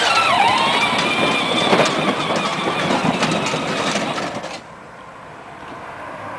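Child's electric ride-on toy truck driving: its motor and gearbox whir and its plastic wheels rattle over the floor. The sound stops abruptly about four and a half seconds in.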